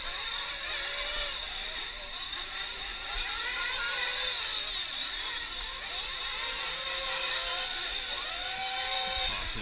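Several 1/8-scale nitro RC truck engines running on a race track, their pitches rising and falling as the trucks speed up and slow down through the laps.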